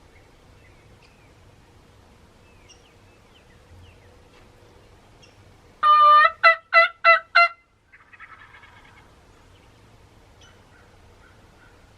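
Wild turkey calling loud and close: one drawn-out note, then four short notes in quick succession, followed about a second later by a fainter, rougher call. Small birds chirp faintly throughout.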